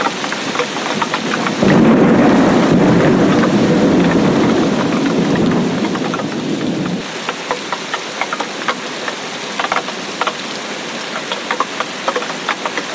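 Steady rain with individual drops ticking, and a roll of thunder that breaks in suddenly about a second and a half in, rumbles for about five seconds and fades away.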